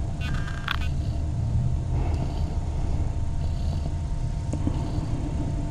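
Mother cat purring close to the microphone, a steady low rumble. A short higher-pitched sound comes about half a second in.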